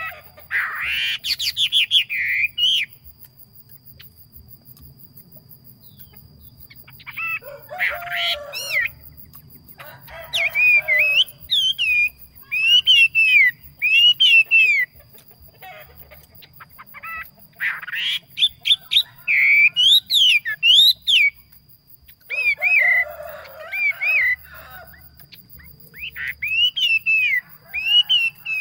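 A yellow songbird singing loud phrases of repeated arching whistled notes, in six bouts of a few seconds each with short pauses between. A faint steady high tone runs underneath.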